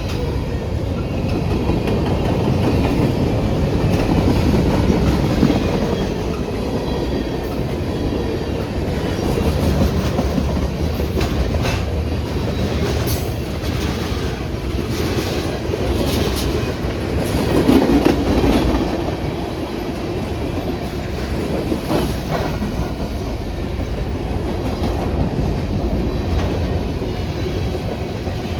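Train cars rolling past on the track with a steady low rumble; wheels click over rail joints in a run of clicks midway through and once more later.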